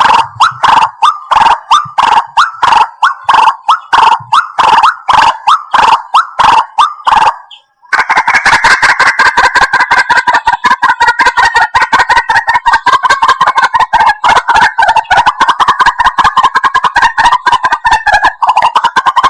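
White-breasted waterhen calling: loud repeated calls at about three a second, breaking off for a moment just before 8 s, then resuming as a much faster, denser run of calls.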